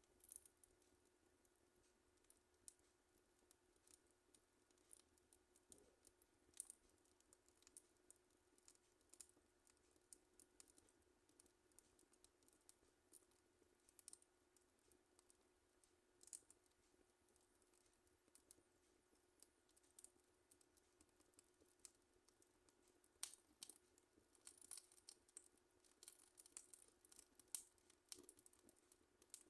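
Wood fire in a fireplace crackling: faint, irregular snaps and pops, coming thicker near the end.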